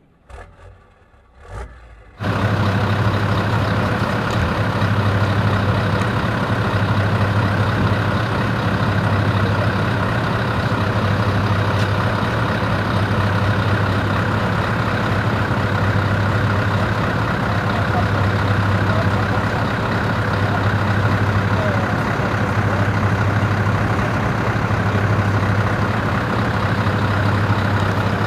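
Scania V8 580 truck engine running steadily at a constant speed, a loud, deep, unchanging hum. It comes in suddenly about two seconds in, after a few faint knocks.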